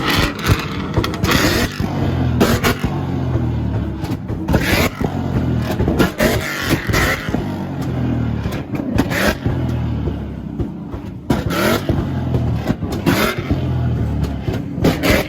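Car engine held on a two-step launch limiter, revving in repeated bursts of a second or so, with rapid sharp exhaust pops and bangs.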